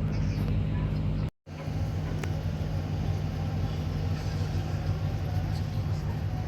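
Steady low drone of a boat's diesel engine running, which breaks off for a moment about a second and a half in and then carries on.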